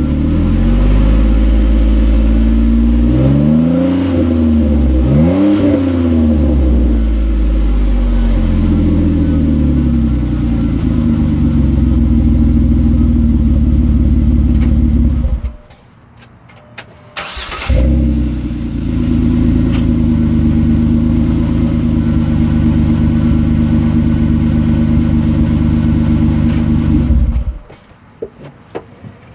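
Jeep Wrangler JK's 3.8-litre V6 running through a Thrush chamber muffler and a shortened, opened-up 3-inch exhaust. It is revved twice a few seconds in, settles to idle, and is shut off about halfway; it is restarted about two seconds later, idles steadily, and is shut off again near the end.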